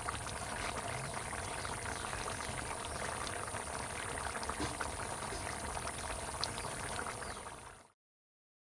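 Chicken and potato curry bubbling at a boil in the pot, a steady liquid hiss with many small pops. It cuts off abruptly about eight seconds in.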